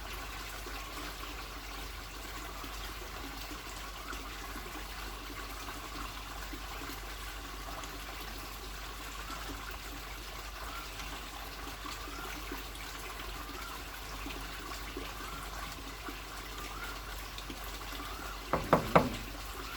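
Steady, even rushing noise like running water, with a low hum under it; a quick cluster of three or four sharp clicks or knocks near the end.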